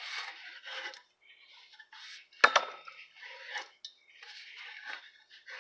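Pipe cutter's wheel scraping around a 1¼-inch copper pipe as the cutter is turned, in a run of uneven raspy strokes, scoring deeper into the pipe. One sharp metallic click stands out about two and a half seconds in.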